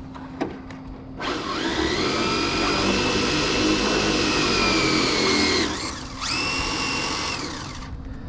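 Electric RC drag car's motor and drivetrain whining at full throttle with the tires spinning, not hooking up. A high whine rises and holds for about four seconds, drops away, then comes back in a second, shorter burst that falls off near the end.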